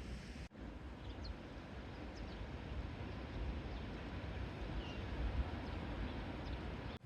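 Outdoor ambience: a steady rumble of wind on the microphone with faint, scattered short bird chirps.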